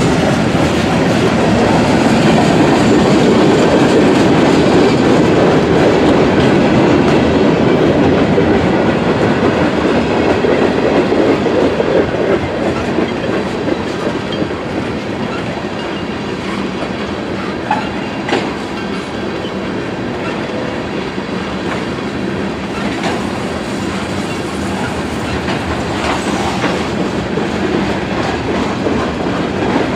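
Freight train of boxcars and tank cars rolling past close by: a steady rumble and clatter of steel wheels on the rails, easing slightly after the first third, with a few sharp clicks a little over halfway through.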